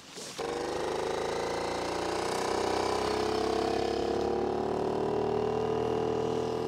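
A small motor switched on abruptly, then running steadily, its pitch rising slightly.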